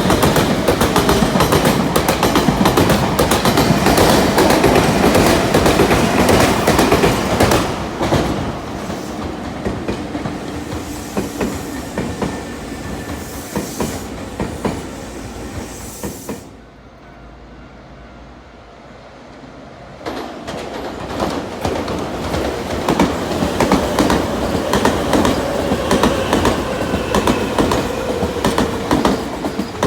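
Electric commuter trains on the Nankai Koya Line passing close by, their wheels clicking rapidly over rail joints. One train passes loudly and fades, then after a short quieter gap a second train passes, with a whine falling in pitch near the end.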